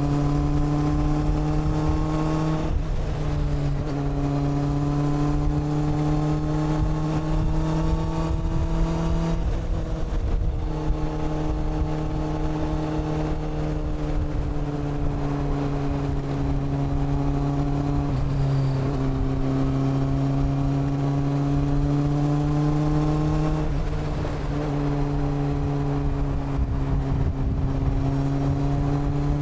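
Honda CB400 Super Four's inline-four engine and exhaust running under way, heard from the rider's seat. The note climbs gently under throttle and drops abruptly about three times, as at gear changes, easing down slowly in the middle.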